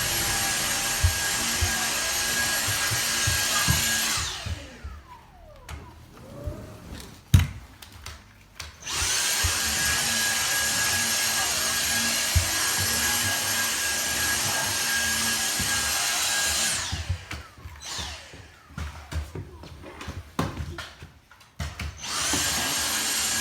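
Vacuum cleaner motor running with a steady whine, switched off about four seconds in and winding down, switched back on about nine seconds in, off again after about seventeen seconds and on again near the end. A sharp knock and a few small bumps fall in the first pause.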